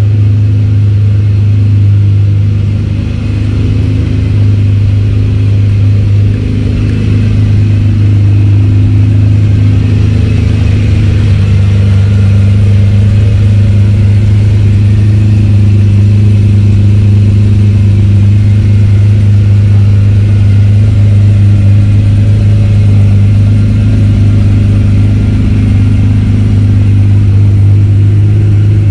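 Ferrari Testarossa's 5.0-litre flat-12 engine idling steadily, a deep, even exhaust note that holds the same pitch throughout.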